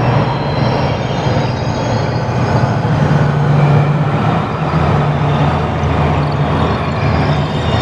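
Electronic ambient sound design: a steady, dense rumbling drone with a strong low hum beneath a noisy wash.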